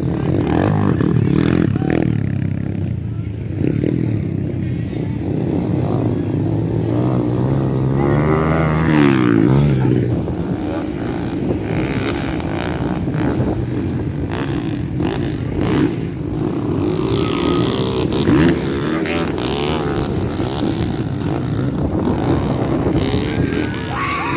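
Motocross dirt bike engines running, with a rev that rises and falls about eight to ten seconds in.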